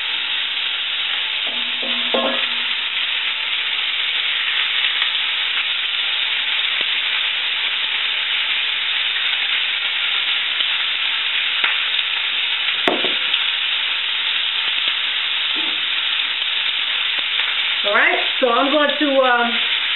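Sliced onions and garlic frying in hot olive oil in a skillet, with a steady sizzle as they are stirred. A single knock about two-thirds of the way through.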